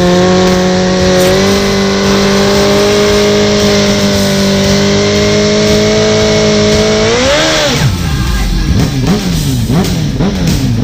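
Drag-racing motorcycle engine held at a steady high rev for about seven seconds, stepping up slightly early on. It then swings up in pitch and goes into a run of quick rises and falls in revs.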